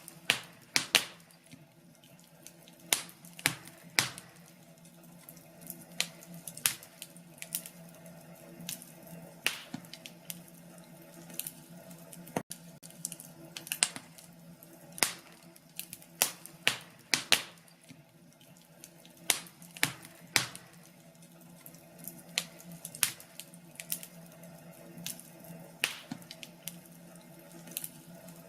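Wood fire crackling: irregular sharp snaps and pops of burning wood, some much louder than others, over a faint steady low hum.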